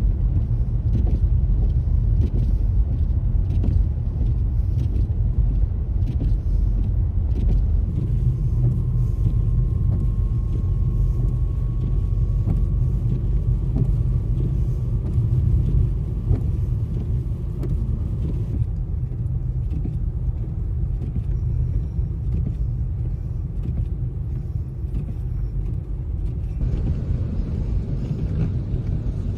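Road vehicles running, heard as a steady low rumble, with a faint whine slowly rising in pitch in the middle. The sound changes abruptly a few times.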